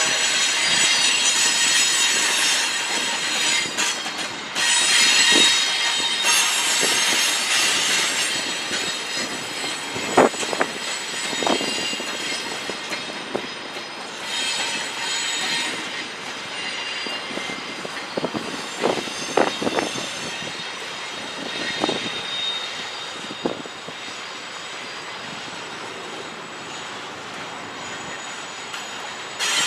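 Freight train cars rolling past, their steel wheels squealing against the rails in high, shifting tones that come and go. Sharp clacks sound now and then, a few bunched together in the middle.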